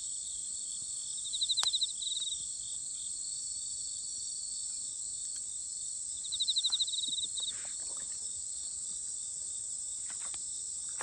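Night insect chorus: a steady high-pitched ringing from many crickets. Twice, about a second in and again around six seconds in, a nearer cricket gives a louder trill of rapid pulses lasting about a second. A couple of faint clicks are also heard.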